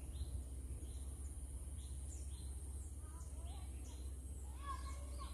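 Forest birds calling: a series of short, high, falling call notes repeated about twice a second, with other birds' chirps joining in from about three seconds in, over a steady high hiss and a low rumble.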